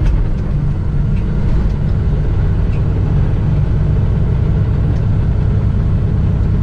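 Semi-truck diesel engine running with a steady low rumble.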